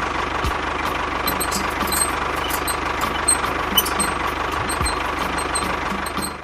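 Motor or engine running steadily, with scattered light clicks. It cuts off abruptly at the end.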